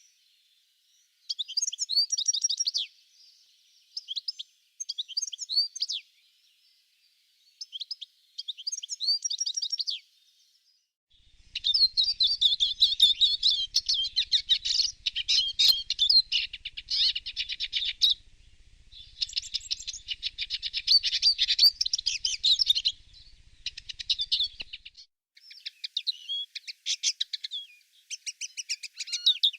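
Songbird singing in quick chirping, trilling phrases. Short phrases with pauses come first, then about eleven seconds in the song turns dense and continuous for roughly twelve seconds, before breaking back into separate phrases.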